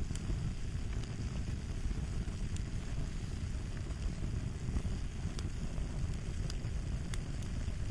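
Fire crackling: a steady low rumble of burning with occasional sharp pops and snaps.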